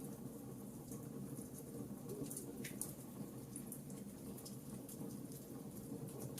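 Wood fire crackling in a fireplace: irregular small snaps and ticks, with one sharper pop nearly three seconds in, over a steady low background.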